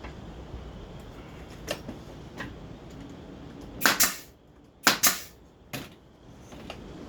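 Brad nailer firing nails into wood: a few light clicks, then two loud sharp pops about a second apart, and one smaller click.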